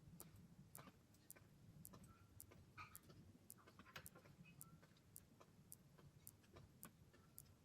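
Faint regular ticking, about two ticks a second, like a clock, with scattered softer irregular clicks under a low steady hum.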